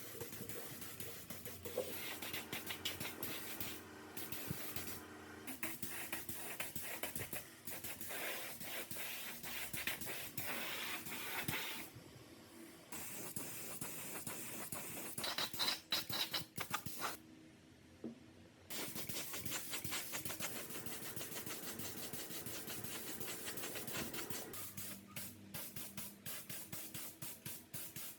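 Workshop work on rusty metal parts: scraping, rubbing and hissing tool noise in a run of short clips that cut in and out abruptly.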